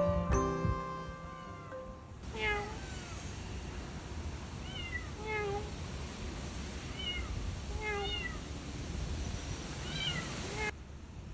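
Stray kitten mewing: about seven short, high-pitched mews, some in quick pairs, over a steady hiss. A glockenspiel-like music tune rings out and fades during the first two seconds.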